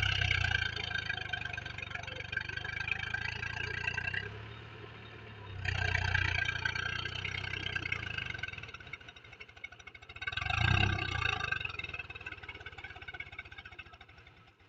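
Swaraj tractor's diesel engine working under load in heavy mud while puddling, its note rising in surges: strong at the start, dipping about four seconds in, picking up again around six seconds and once more near eleven seconds, then dropping away near the end.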